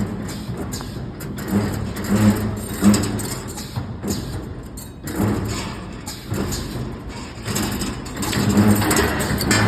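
Automatic CNC stirrup bending machine running through its cycles: a motor hum that swells and fades every second or two, with knocks and clatter as the steel bar is fed and bent.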